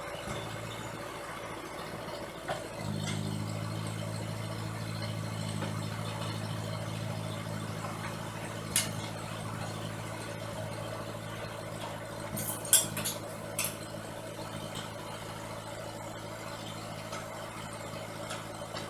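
An engine idling steadily, a little louder from about three seconds in, with a few short sharp clicks and rattles near the middle.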